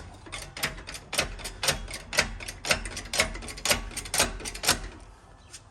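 Small hand-pumped hydraulic jack being worked to compress the car's suspension: a steady series of sharp clicks, about two a second, that stops near the end.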